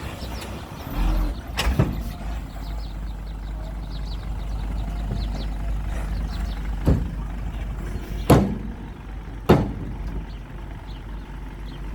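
Heavy construction machinery, a dump truck or small bulldozer, with its engine running steadily and four sharp knocks scattered through it.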